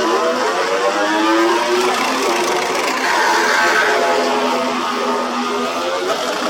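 Racing motorcycle engines revving, several engine notes at once rising and falling in pitch.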